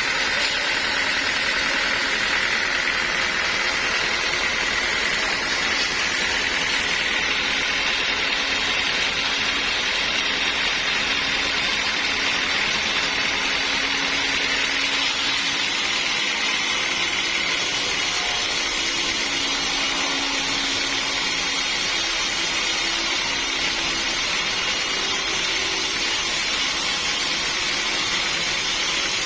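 Sawmill saw running steadily through a large log, a continuous high whine with a ringing tone that is strongest in the first several seconds.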